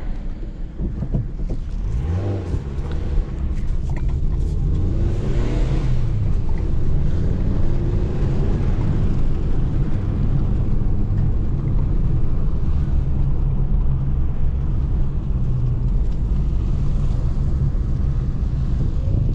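Small car's engine running as the car is driven slowly, heard from inside the cabin. The engine rises in pitch a couple of times in the first several seconds as the car pulls away, then runs steadily.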